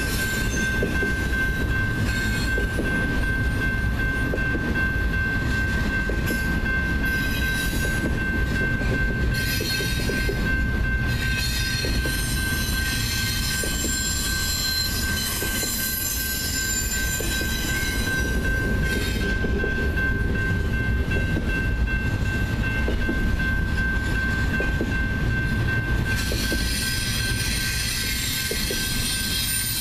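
Long BNSF double-stack container train rolling past at speed: a steady, loud rumble of railcars and wheels on the rails, with a steady thin high tone over it.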